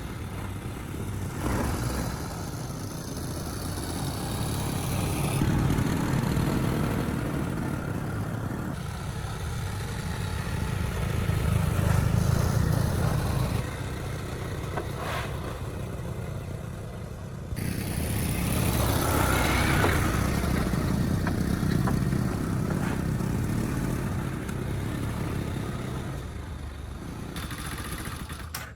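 A motor vehicle's engine running on the move, swelling and easing off, with several abrupt jumps in sound where the shots change.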